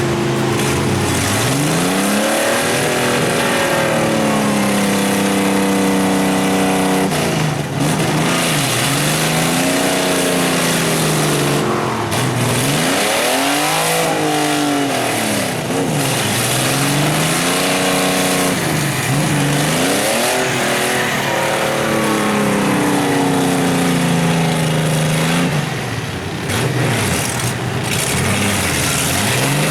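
Mud-bogging vehicle's engine revving hard, its pitch rising and falling over and over as it is pushed through the mud pit.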